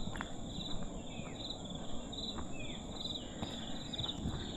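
Insects calling in coastal jungle: a steady high-pitched buzz under a string of short, pulsing chirps, with a couple of short falling whistles and a few faint footstep-like ticks.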